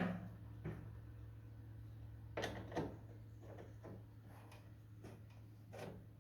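Scattered knocks and clicks of tools and metal parts being handled, several of them loud and sharp, over a steady low hum.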